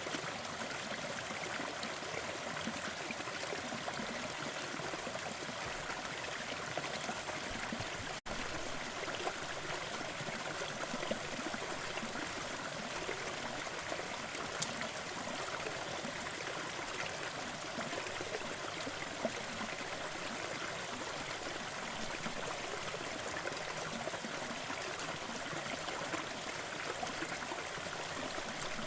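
Waterfall: a steady, even rush of falling water, with a momentary dropout about eight seconds in.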